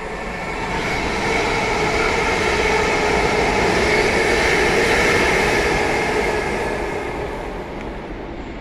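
Electric passenger train passing through the station without stopping. The rush of its wheels and a steady whine swell to a peak about four to five seconds in, then fade as it goes away.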